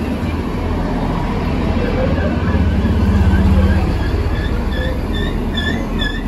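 DB Regio diesel multiple unit rolling slowly past along a platform, its engines giving a steady low rumble. About two-thirds of the way through, a high wavering wheel squeal sets in, rising and falling about twice a second.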